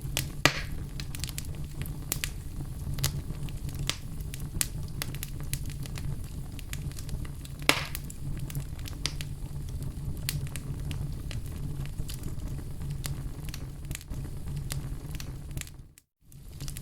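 Wood fire burning in a fireplace: a steady low rumble of flames with constant crackling and two louder pops, one about half a second in and one about eight seconds in. The sound briefly cuts out near the end.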